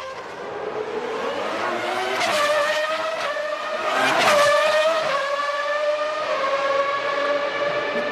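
Formula One cars' high-revving naturally aspirated racing engines, holding a high note with small rises and falls, with two cars sweeping past about two and four seconds in.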